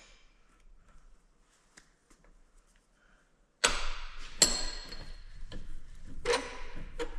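Metal tools and parts clinking and knocking against each other, with a few sharp, ringing strikes, beginning about halfway in after a stretch of faint clicks. They come as the seized bearings are being worked out of an idler pulley whose bearing has locked up.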